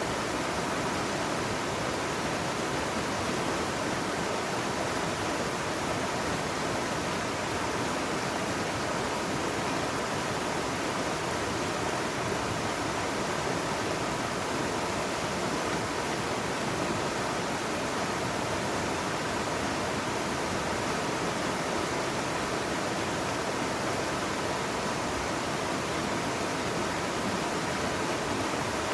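Mountain stream water rushing over rocks: a steady, even rush of water that does not change.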